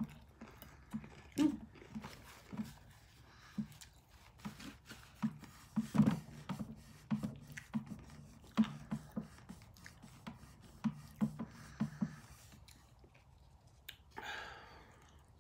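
Close-up chewing of a crisp fried corn tostada shell topped with shrimp: irregular crunches, several a second, that die away about twelve seconds in.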